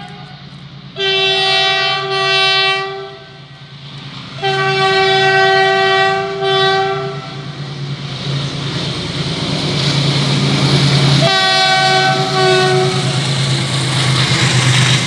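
Train horn sounding three long blasts as a double-stack container train approaches, the second blast broken by a short gap. From about eight seconds in, the rumble and rush of the train running past grows louder and fills the sound.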